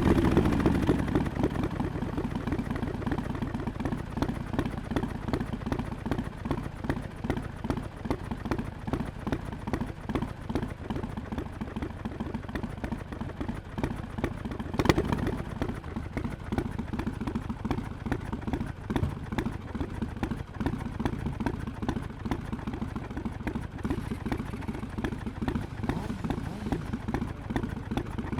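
2017 Harley-Davidson XL1200X Forty-Eight's air-cooled V-twin running through Vance & Hines Short Shots pipes with quiet baffles, idling with an uneven pulsing beat after easing down over the first couple of seconds. A single sharp knock comes about halfway through.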